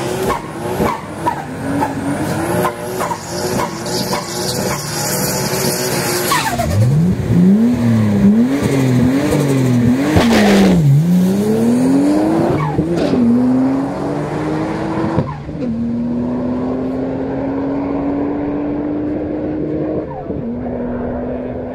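Turbocharged Nissan RB30 straight-six in a Holden VL Commodore drag car. It starts with a burnout, the engine revving over screeching, spinning rear tyres. Then the revs rise and fall quickly several times, and finally it accelerates hard down the strip, the pitch climbing and dropping sharply at two manual gear changes.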